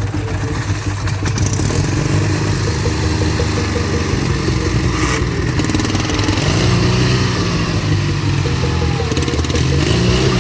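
Ural motorcycle's flat-twin engine running, revved up and back down in slow swells about two-thirds of the way through and again near the end.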